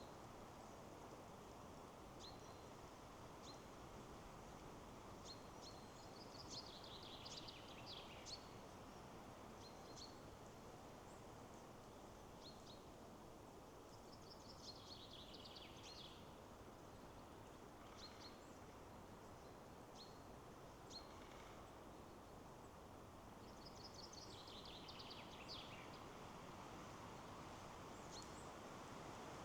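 Faint steady rush of wind in the trees, with a songbird singing a falling trilled phrase three times, about nine seconds apart, and short high chirps in between.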